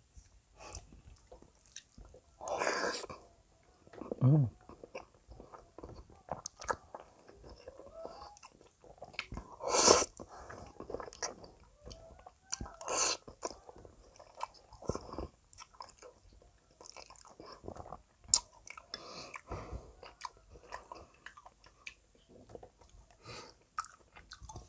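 Close-miked chewing of spaghetti carbonara, with many wet mouth clicks and smacks and a few louder slurps of noodles. A brief low falling hum about four seconds in.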